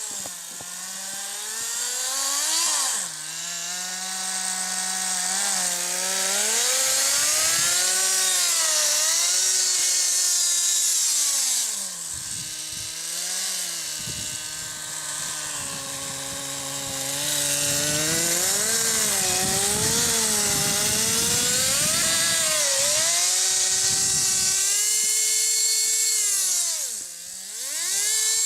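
Small two-stroke nitro glow engine (Kyosho GX15) of an RC snowcat running with a high buzz, its pitch rising and falling again and again as the throttle opens and closes. It drops back briefly near the end before picking up again.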